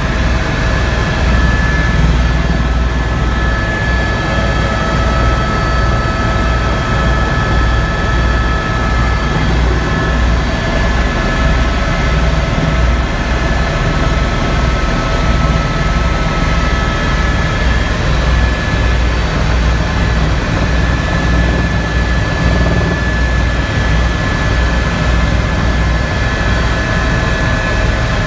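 Helicopter in flight: a steady, loud engine and rotor noise with a rapid low throb under several high steady whining tones.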